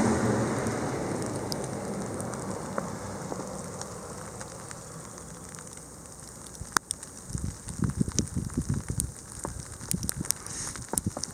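A car driving on a snow-covered road, its tyre and engine noise fading away over the first few seconds. Then scattered light ticks and soft low thumps, the loudest of them near the end.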